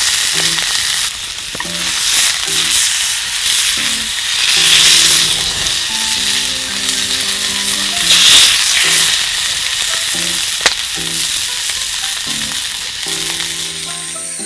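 Food sizzling in a hot pan, a steady loud hiss that swells and eases, with one sharp click about two-thirds of the way through. Soft background music runs underneath.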